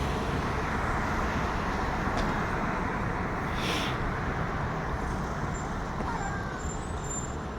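Steady road traffic rumble from a city street, with a short hiss about three and a half seconds in.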